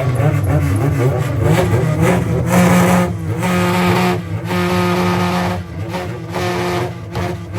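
Car engine revving hard at a car meet, holding a steady high pitch with several brief dips.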